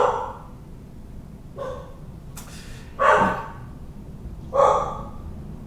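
Pet dog barking, about four separate barks roughly a second and a half apart, the first right at the start, one faint and the last two loudest.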